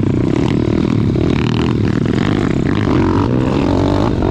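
Pit bike engine running, its pitch rising and falling as it is throttled.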